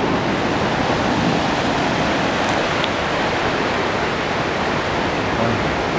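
Steady, continuous rushing of ocean surf washing on a beach.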